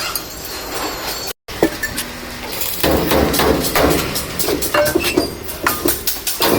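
A steady rumble that stops abruptly about a second and a half in, then metal parts clinking and being tapped with a hammer during truck wheel hub work. The tapping gets busier about three seconds in.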